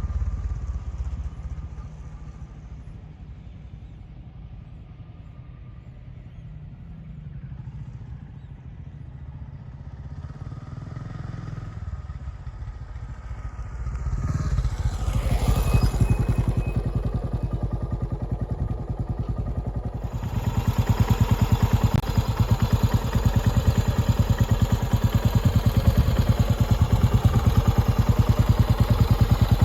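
Yamaha SR400 single-cylinder four-stroke, bored to 500 cc, running through a New Gate SR-VCT Type R muffler. It settles from higher revs to a low, even idle beat, picks up around the middle, then runs louder and fuller for the last third.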